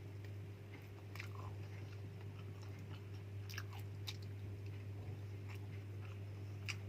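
A person biting and chewing crunchy food close to the microphone, in a handful of separate crunches. A steady low hum runs underneath.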